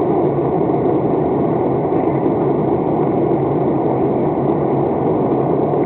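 Steady drone of an airplane in flight, heard inside the cabin: an even, unchanging rush of engine and air noise.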